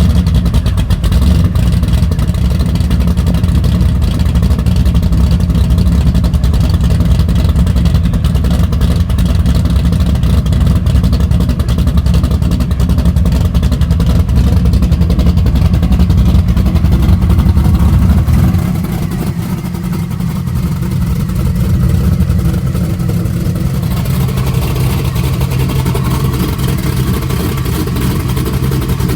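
Car engine running at a loud, steady idle, with a heavy low rumble. About two-thirds of the way through it drops somewhat in level and then carries on steadily.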